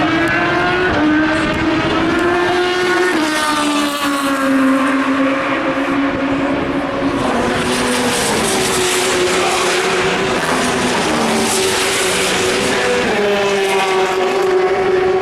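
Endurance racing cars' engines running hard on track, more than one car heard at once. The engine notes hold and then jump in pitch every few seconds as the drivers change gear.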